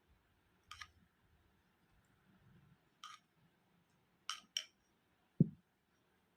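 Eating sounds during a meal of curry and rice: four short sharp clicks, two of them close together, then a single louder dull thump near the end.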